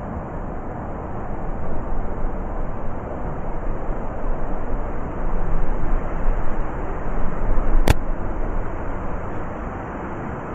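Blizzard wind blowing in gusts, swelling louder through the middle and easing off near the end, with a single sharp click about eight seconds in.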